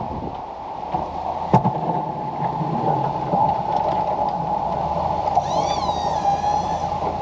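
An engine running steadily, most likely snow-clearing equipment. About five and a half seconds in, a brief high warbling squeal sounds over it.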